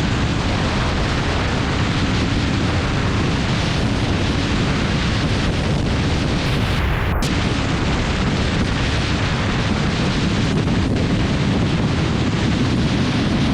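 Loud, steady wind noise buffeting the microphone of a motorcycle rider's camera at speed, with road and engine noise mixed in.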